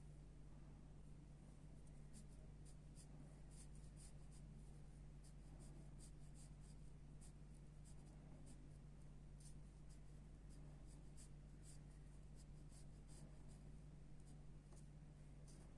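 Faint pencil strokes scratching across paper in short, irregular strokes, a few a second, over a steady low hum.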